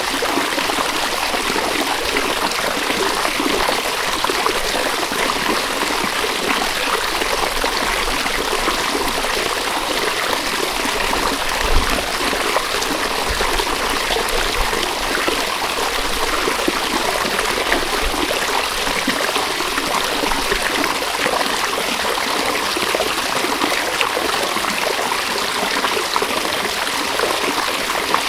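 Steady rush and trickle of a flowing river, even throughout, with one brief low thump about twelve seconds in.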